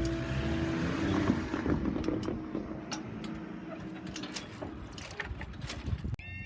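Level crossing alarm tones die away about half a second in, followed by road vehicles rumbling over the crossing with a few knocks. Just before the end a different level crossing's warbling alarm starts up.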